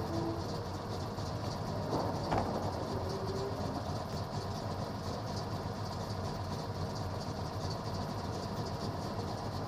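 2005 Ford Crown Victoria's 4.6-litre V8 idling steadily, with the driver's door shut once about two seconds in.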